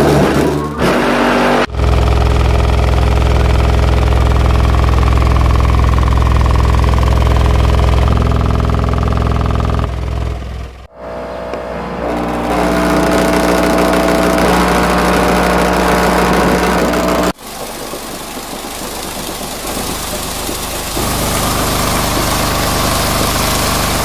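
Two Bravox Endurance 2K subwoofers driven by a Soundigital 3000 amplifier playing loud bass-heavy music, with deep notes held for several seconds at a time. The sound cuts out briefly about 11 and 17 seconds in, and it is thinner after the second cut.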